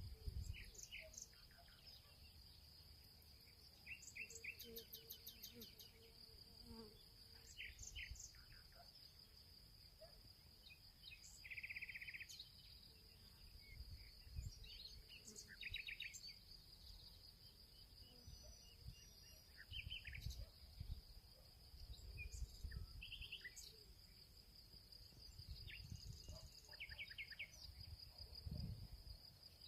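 Field ambience, faint: insects trill steadily on one high pitch while birds give short scattered chirps and calls throughout, with occasional low rumbles underneath.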